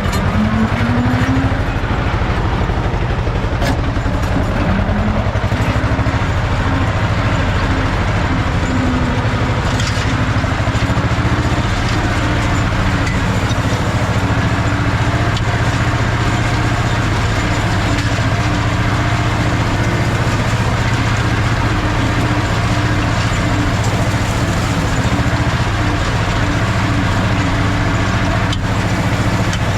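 Ursus C-330 tractor's two-cylinder diesel engine running steadily while raking hay, its pitch rising briefly near the start.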